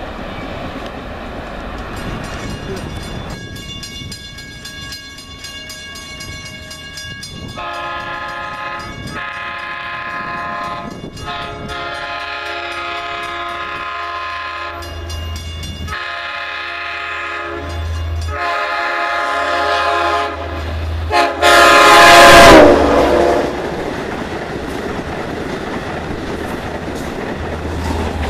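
Long Island Rail Road diesel passenger train approaching and passing at speed, sounding its multi-chime air horn in a string of long blasts. The last blast is the loudest and drops in pitch as the locomotive goes by. It is followed by the steady rumble and clickety-clack of the cars rolling past.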